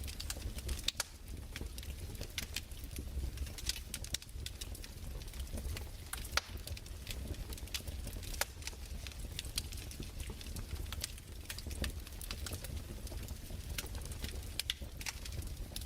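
Crackling fireplace: irregular pops and snaps of burning wood over a steady low rumble.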